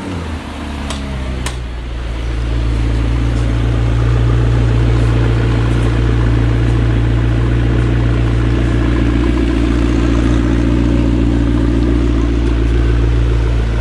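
McLaren MP4-12C Spider's 3.8-litre twin-turbo V8 idling steadily, heard close to the exhaust. It grows louder about two seconds in and then holds at one even pitch. Two light clicks come about a second in.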